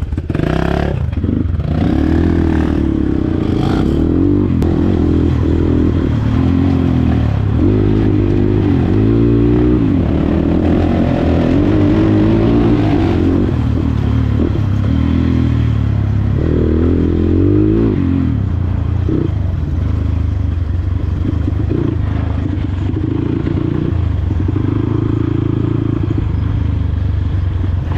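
Dirt bike engine running on the move, its pitch rising and falling with the throttle, with some clatter.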